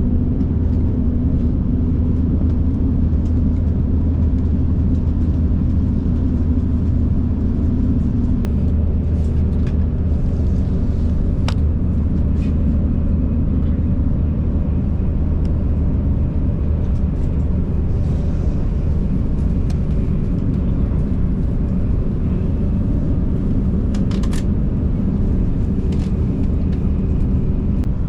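Sanyo Shinkansen Sakura train running at speed, heard inside the passenger car: a steady low rumble and rush of running noise, with a few faint light ticks.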